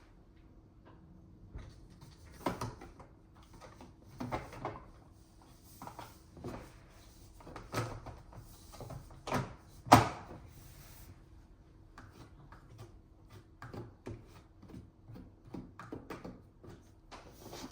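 Plastic clicks and knocks as the filters of a Dyson HP09 air purifier are handled and fitted back into its housing, with one sharp knock about ten seconds in and a faint steady hum underneath.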